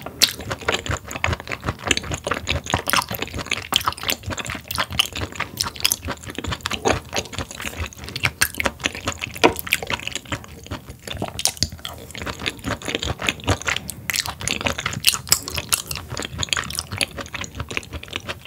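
Close-miked wet chewing of sturgeon: a dense run of quick, sticky mouth clicks and smacks, quieter for a moment about ten seconds in.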